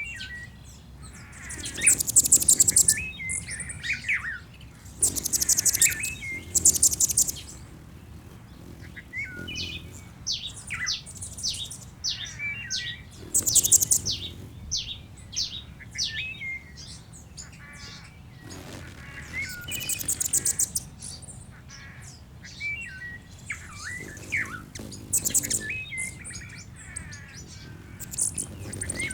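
Birds singing and calling: very high, fast trills come every few seconds, with shorter whistled notes that slide up and down between them.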